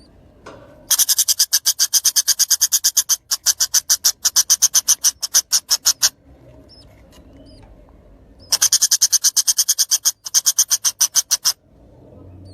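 A bird giving a rapid, dry rattling trill of sharp clicks, about eight a second, in two long runs with a pause between them.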